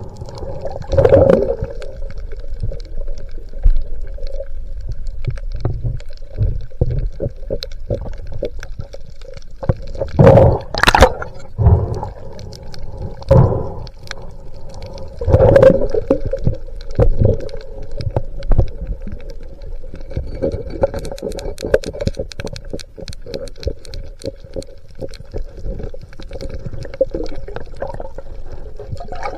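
Water gurgling and sloshing around an underwater camera, with irregular loud surges a few seconds apart and a steady faint hum underneath.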